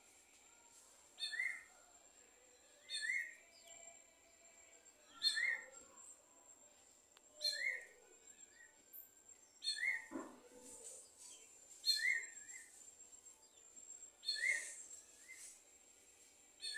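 Sabiá-gongá calling: a short, sharp call repeated about every two seconds, eight times in all.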